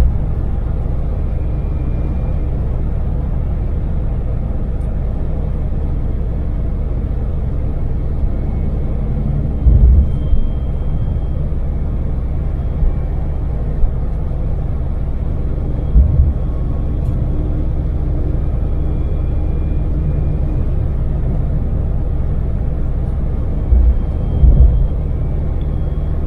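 Daewoo Damas LPG microvan driving at expressway speed: a steady low engine and road drone, with a few brief low thumps.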